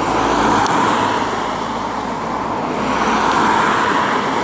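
Cars passing by on a road, their tyre and engine noise swelling twice as they go past.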